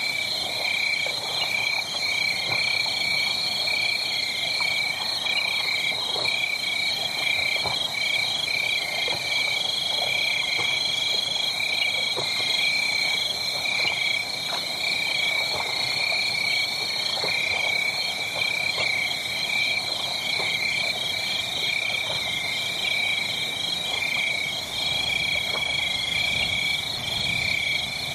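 A steady night chorus of high-pitched animal calls, many rapid pulses repeating without a break, with the faint scattered crackling of a wood fire beneath.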